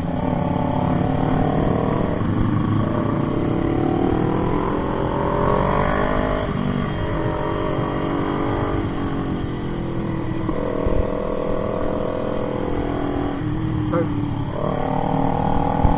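Motorcycle engine pulling hard through the gears, its pitch climbing and then dropping at each shift, several times over.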